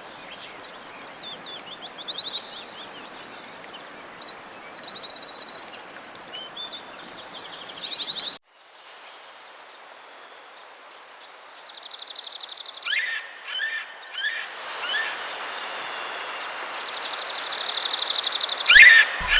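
Several songbirds chirping and singing, with rapid buzzy trills over a steady outdoor hiss. The soundscape cuts off abruptly about eight seconds in, and a second stretch of trills and chirps follows, louder near the end.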